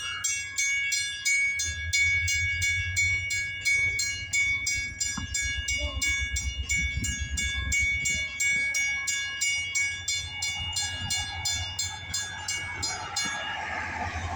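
A grade-crossing bell dings steadily, about three strokes a second, and stops near the end. Under it the diesel engine of a CSX road-switcher locomotive rumbles deeply as the engine moves past, with a rushing rail noise swelling near the end.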